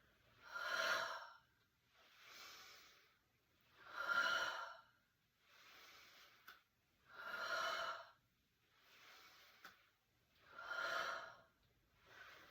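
A person breathing slowly and deeply in time with a tai chi breathing exercise: four full breaths, each a louder whooshing breath followed by a softer one, about three seconds apart.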